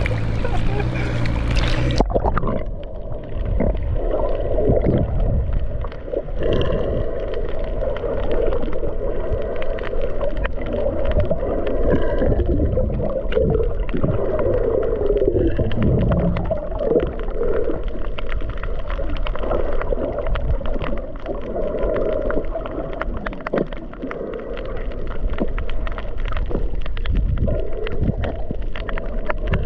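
A GoPro's waterproof-cased microphone dipping underwater about two seconds in: after a brief splashy stretch at the surface, the sound turns muffled, with water churning and bubbling against the housing.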